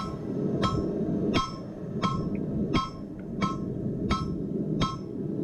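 Blacksmith's hammer striking hot steel on a railroad-track anvil in a steady rhythm, about eight ringing blows roughly every 0.7 seconds, drawing out the stem of a forged leaf. A steady low background noise runs underneath.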